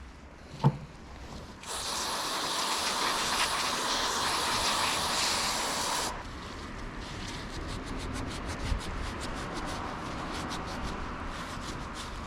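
A single knock, then an aerosol can of brake parts cleaner spraying in one steady hiss for about four seconds that cuts off suddenly. Rapid rubbing strokes follow.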